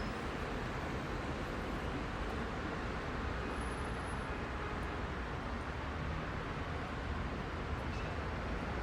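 Steady rumble of heavy rush-hour city traffic, many cars and buses passing in a continuous wash of engine and tyre noise.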